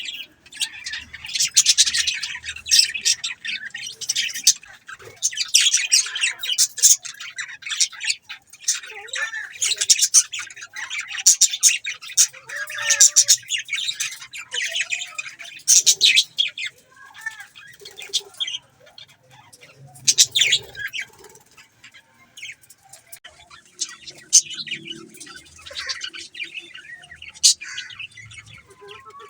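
A flock of budgerigars chattering and chirping, a dense run of rapid high-pitched warbles and chirps that thins out after about twenty seconds.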